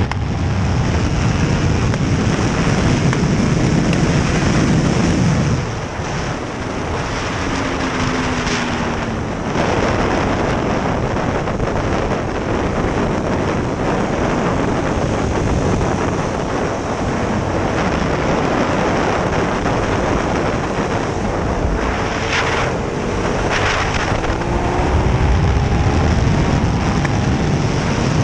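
KTM 1290 Super Duke R's V-twin engine running at track speed, largely buried under heavy wind rush on the microphone. There is a brief dip in level about six seconds in, and the engine note climbs in pitch near the end as it accelerates.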